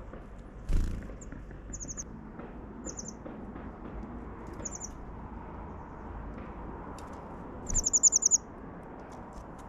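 Small songbird calling in short bursts of three or four quick, high chip notes, then a longer rapid run of about eight notes near the end, the loudest sound here. A single soft knock comes a little before the first call.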